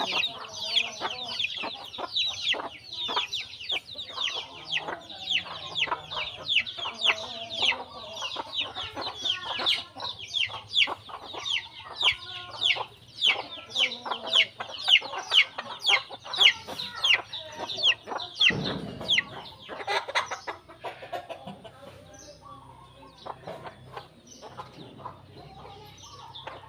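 Sparrows chirping in a rapid, busy chorus of short falling chirps, with chickens clucking underneath; the chirping thins out near the end.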